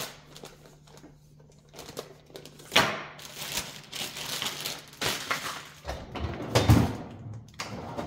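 Frozen food packages and bags being handled and set into a freezer: a quiet start with a faint steady hum, then knocks and rustling from about three seconds in, and a heavier thud near the end.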